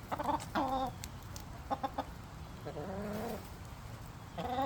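Hens clucking: two short calls near the start, three quick clucks a little under two seconds in, and a longer, lower call about three seconds in.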